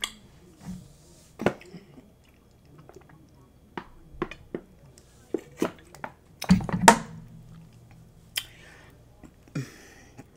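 Close-miked eating sounds of chili cheese fries: scattered wet chewing clicks and lip smacks. About six and a half seconds in comes a louder, longer burst as a plastic bottle of drink is lifted and sipped.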